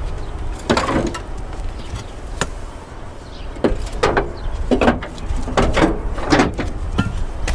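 Steel mower deck being dragged and worked out from under a riding mower: a string of irregular metal clanks and scrapes as it knocks against the frame and fender pan, over a steady low hum.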